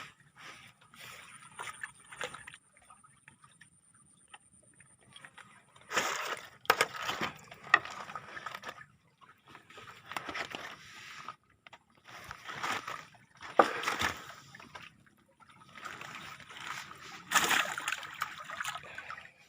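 Water splashing and sloshing in several bursts of a second or more each, with sharp clicks among them, as a keep net holding tilapia is checked.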